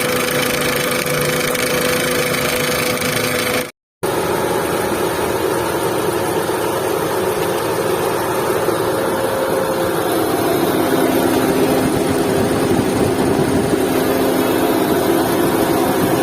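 Volkswagen Vento engine running steadily, the engine sound that the car is being checked for as a noise problem. It drops out for a moment about four seconds in, then carries on with a slightly different tone, and a low steady hum grows a little louder from about ten seconds in.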